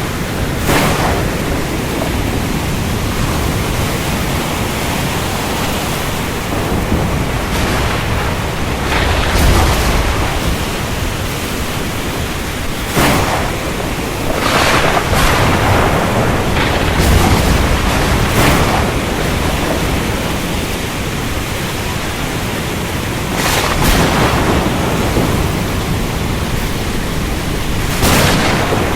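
Steady heavy rain in a thunderstorm, with short sharp thunder cracks every few seconds, several close together around the middle, and low rumbles swelling after some of them.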